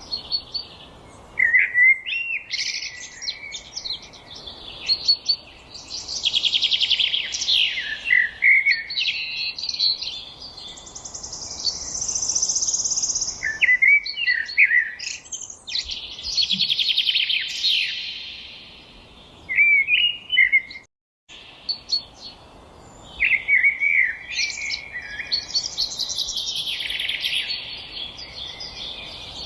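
Songbirds singing in a forest chorus: rapid trills and short warbled phrases follow one another and overlap, over a faint steady background hiss. The sound cuts out for a split second about two-thirds of the way through.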